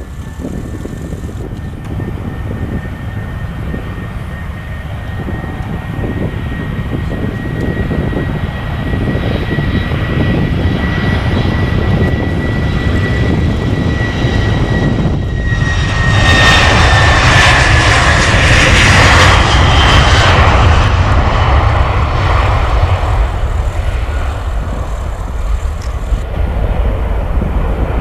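Boeing 737-700's CFM56-7B jet engines at take-off thrust going past: a steady high fan whine that drops in pitch about 16 seconds in as the jet passes, loudest just after, then a broad rumble trailing away.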